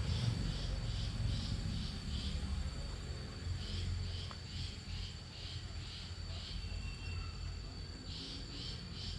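Insects chirping in a regular rhythm, about three chirps a second, breaking off twice for a second or so, over a steady high-pitched trill and a low rumble.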